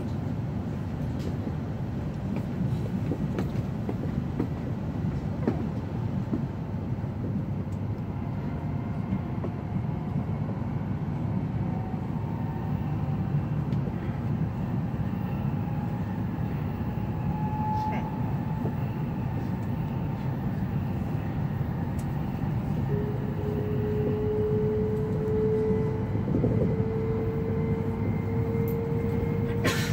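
E7 series Shinkansen running, heard from inside the passenger cabin: a steady low rumble. From about two-thirds of the way in, a motor whine joins it and climbs slowly in pitch as the train speeds up.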